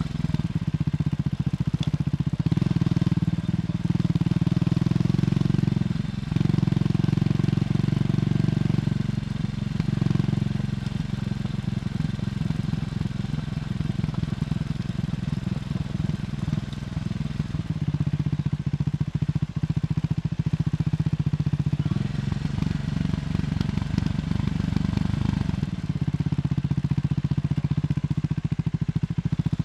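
Triumph Scrambler 400X single-cylinder engine running through its stock exhaust under way, with brief dips in level about six and ten seconds in.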